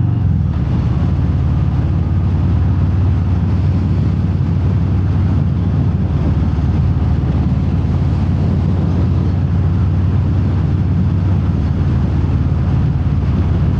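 V-twin engine of a 2019 Harley-Davidson Fat Bob, through Vance & Hines Hi-Output slip-on mufflers with the quiet inserts out, heard from inside the rider's helmet at riding speed with wind noise. The engine note drops about half a second in, then runs steadily.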